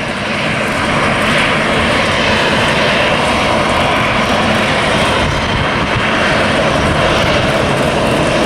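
Jet engines of a Southwest Boeing 737 airliner passing close by, a loud steady rushing noise that has just built up to full strength.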